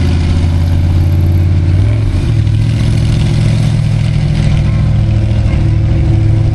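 Big-block Chevy V8 in a monster-truck Cadillac hearse running at low revs, its note shifting briefly about two seconds in.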